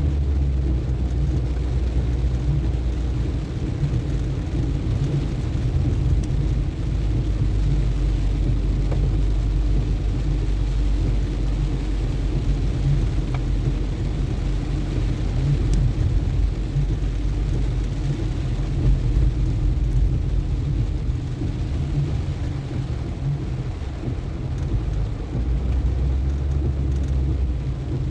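Car driving along a wet road in the rain: a steady low rumble of engine and tyres with a hiss of water spray.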